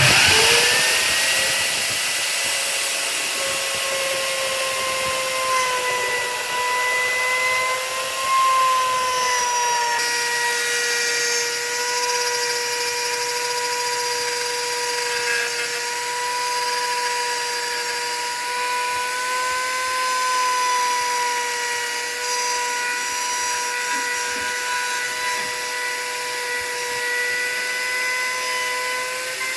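An electric power tool switched on, spinning up and then running with a steady high whine, its pitch wavering slightly now and then.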